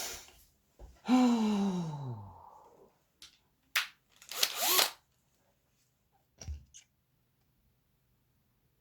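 A man's long voiced sigh falling steadily in pitch, about a second in. A few sharp clicks, a short breathy rush and a low knock follow.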